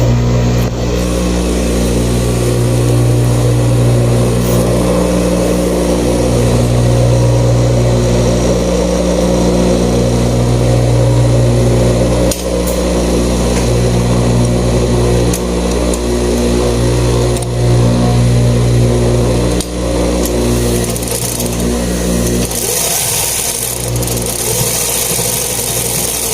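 Straight-stitch sewing machine running in spurts under the foot pedal, its motor hum easing briefly every few seconds as a short seam is stitched. The motor stops near the end, with a brief rustle, then starts again.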